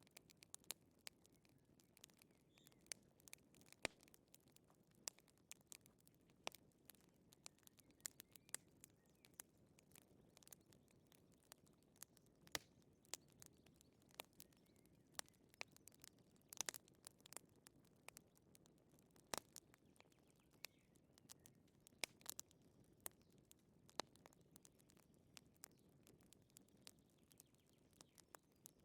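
Wood fire crackling softly: irregular sharp pops and snaps, a few louder than the rest, over a low gentle rush.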